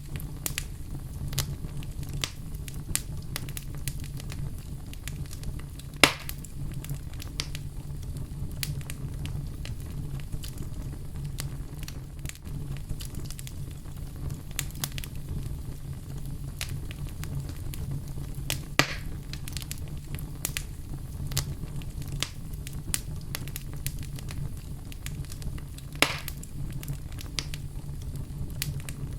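Fireplace fire crackling steadily with frequent small snaps and three louder pops, about 6, 19 and 26 seconds in, over a steady low rumble.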